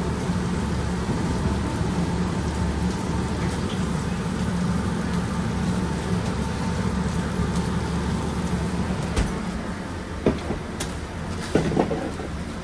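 Food truck kitchen equipment running with a steady low hum and hiss, then a few sharp knocks and clatters from about nine seconds in.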